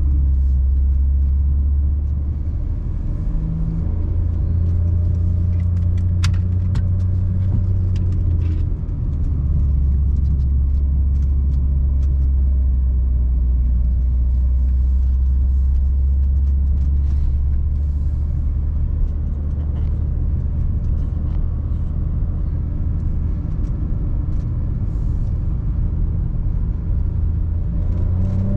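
Seat Ibiza FR's 1.0 TSI three-cylinder turbo petrol engine and Friedrich sport exhaust, cruising at steady revs with a deep, low exhaust drone. The drone rises a step about four seconds in and drops back about nine seconds in.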